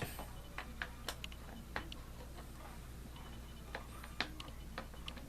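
Scattered light clicks and taps of plastic box-fan parts being handled and fitted together, the sharpest at the very start, the rest at irregular intervals over a low steady hum.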